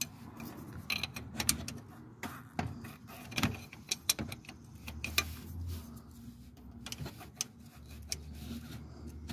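Irregular metallic clicks and knocks of a socket wrench working a 21 mm bolt loose.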